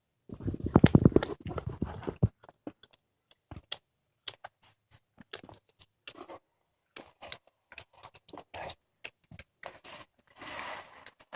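A cat chewing and crunching through a squirrel carcass: a dense run of loud crunches in the first couple of seconds, then scattered bites and clicks.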